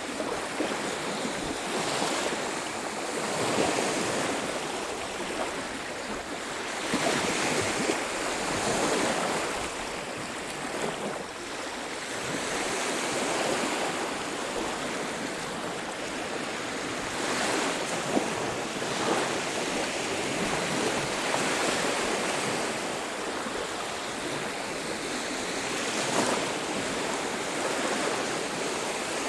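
Sea surf on a beach: a continuous rush of breaking and washing waves that swells and eases every few seconds.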